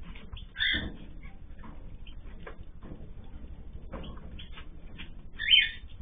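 Aviary birds chirping: a short sharp call about half a second in and a louder one near the end, with faint scattered chirps between, over a steady low background rumble.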